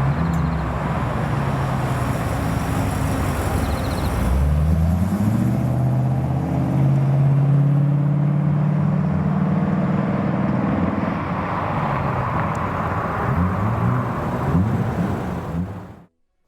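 American car's engine running, its pitch climbing about four seconds in as it speeds up, then holding steady and wavering before the sound cuts off suddenly near the end.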